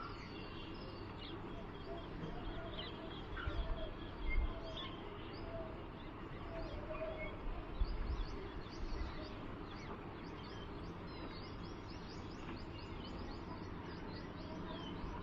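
Small birds chirping: many short, high chirps, coming thicker in the second half, over a steady background hiss, with a few low bumps about four seconds in and again near eight.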